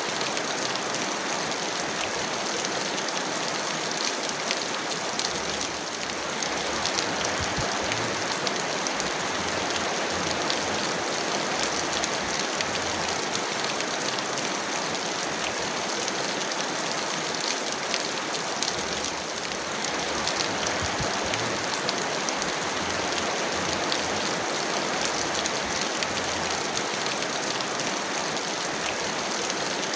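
Heavy rain falling steadily: a dense, even hiss of countless drops with no letup.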